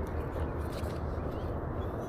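Steady low rumbling outdoor background noise, with a few faint ticks.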